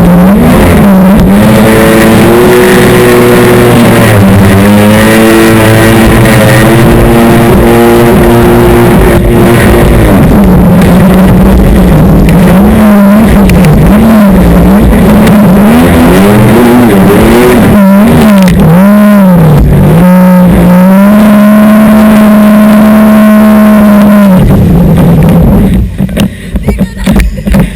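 Jet ski engine running loud, its pitch rising and falling with the throttle and held steady for several seconds at a time, then dropping away near the end.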